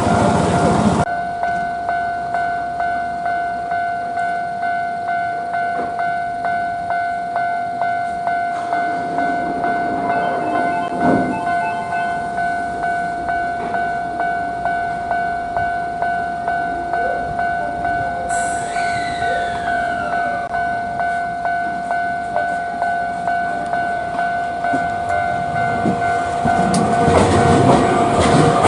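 Train running at a steady speed: a steady motor whine with a regular click about twice a second. A few falling, whistle-like glides come in about two-thirds of the way through.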